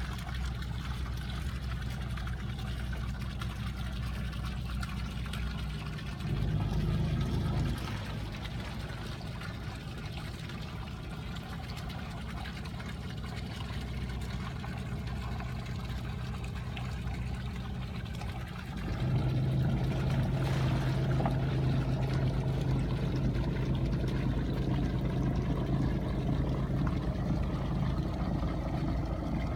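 Inboard engine of the ring-net fishing boat Shemaron running steadily under way, with water noise. The engine note changes and grows louder for a moment about six seconds in, then rises again about nineteen seconds in and holds the louder, stronger note.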